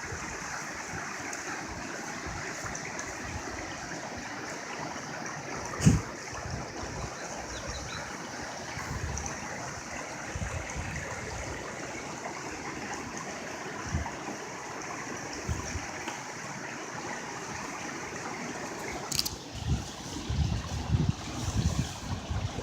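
Water of the Los Peñasquitos waterfall running steadily over rocks. A single sharp thump about six seconds in, and a few uneven low bumps near the end.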